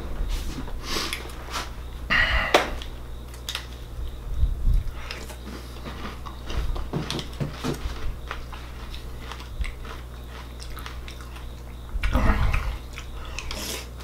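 Mouthfuls of Raisin Bran Crunch cereal being chewed, with crunching in bursts (loudest near the end) and light clicks of a plastic spoon against a plastic bowl, over a steady low hum.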